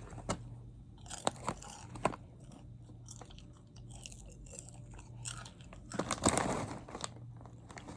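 A person chewing and crunching mouthfuls of toasted cinnamon kettle corn, with irregular crunches and a busier stretch of chewing about six seconds in.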